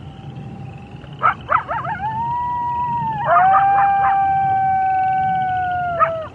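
A dog howling: long, steadily held notes, with a few short yelps about a second in and again near the end.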